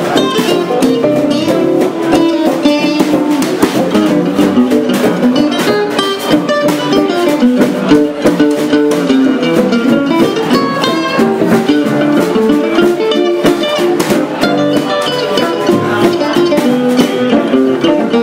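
Gypsy jazz guitars playing an up-tempo swing tune: a plucked melody over a steady strummed rhythm.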